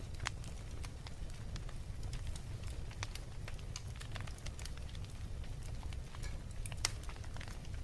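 Wood fire crackling in a fireplace: frequent irregular sharp pops and snaps over a steady low rumble of the flames, with one louder pop near the end.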